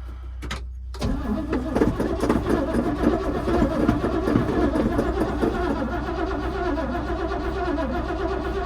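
An old truck's engine being cranked over by the starter from about a second in, a steady pulsing churn that goes on without the engine catching. It turns over but won't fire, with the gas being pumped in place of a working choke.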